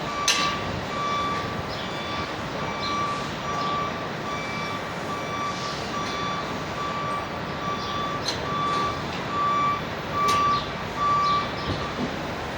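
Vehicle reversing alarm beeping, a steady run of beeps, about two a second, that stops near the end, with a few sharp metallic clinks in between.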